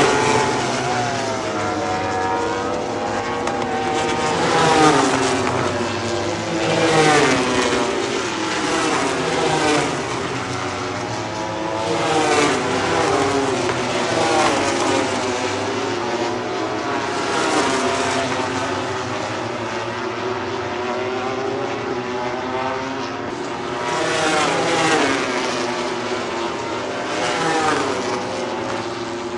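MotoGP racing motorcycles, 1000 cc four-cylinder four-stroke prototypes, running past one after another at speed, each engine note rising and falling in pitch through gear changes and the pass. Several bikes overlap, with a loud swell every couple of seconds.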